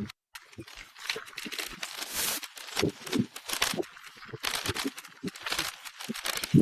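Wind buffeting the microphone, heard as irregular crackly, rustling gusts with low thumps, thinned by noise removal; the sound drops out completely for a moment just after the start.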